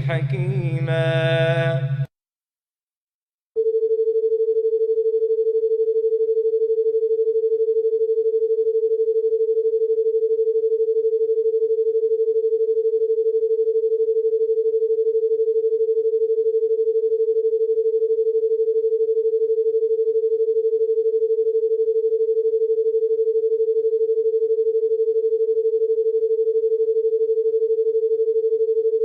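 A recited verse ends about two seconds in; after a short silence, a single steady electronic sine tone starts and holds without change, like a dial tone.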